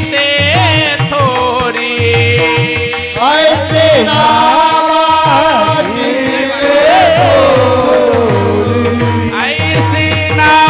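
Marathi Warkari kirtan music: steady held harmonium-like tones under a sung melodic line that bends and wavers with no clear words. Drum strokes keep a rhythm, thinning out in the middle and picking up again near the end.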